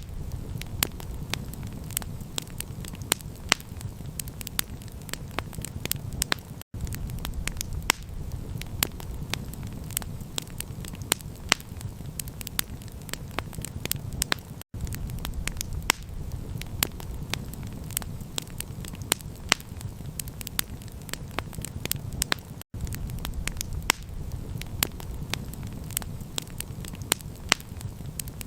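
Wood campfire crackling, with many sharp irregular pops and snaps over a steady low rumble. The sound cuts out for an instant about every eight seconds, where a short recording is looped.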